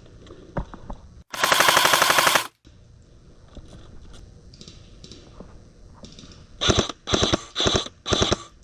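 Airsoft gun firing on full auto: one loud burst of rapid, evenly spaced shots lasting about a second, then four short bursts close together near the end.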